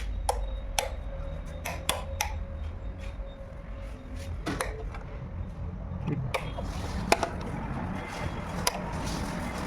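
A series of irregular sharp knocks and taps over a low steady hum.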